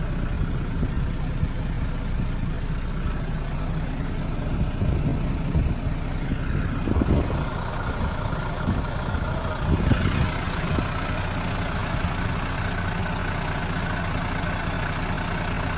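An engine running steadily with a low rumble and faint steady high tones, swelling briefly a few times; a short rising whine comes about ten seconds in.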